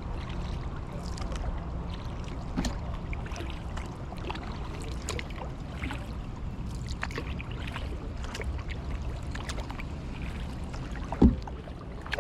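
Kayak paddling: water splashing and dripping off the paddle blades in small scattered splashes over a steady low rumble. There is one louder thump near the end.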